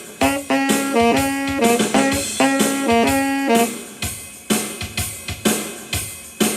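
Saxophone playing a melody of short held notes over a drum kit beat. The saxophone stops a little over three and a half seconds in, and the drums carry on alone with hits about twice a second.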